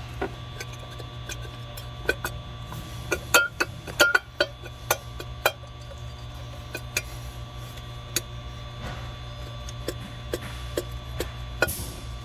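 Irregular metal clicks and knocks, busiest a few seconds in, as a new oil separator is worked down into place in the engine, with a steady low hum underneath.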